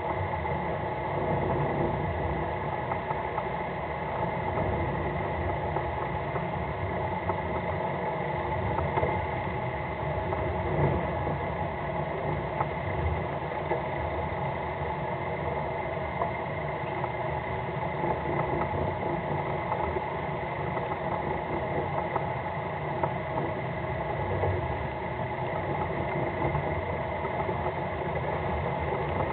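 Fishing boat's engine running steadily, a constant hum that neither rises nor falls.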